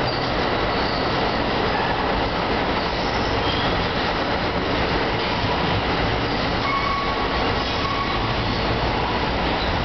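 NJ Transit bilevel commuter coaches rolling out past the platform, a steady loud rumble of wheels on rail. A faint brief wheel squeal comes about seven seconds in.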